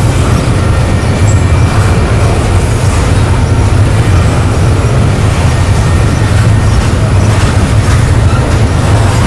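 A train rolling past at close range: a steady, loud low rumble of steel wheels on the rails with faint scattered clicks.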